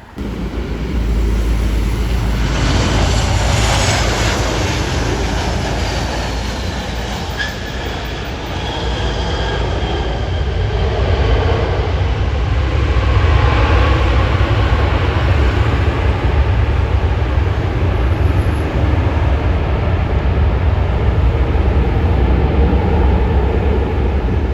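Jet airliner engines at high power, a loud rumble throughout. In the first several seconds a high whine falls steadily in pitch as the jet passes.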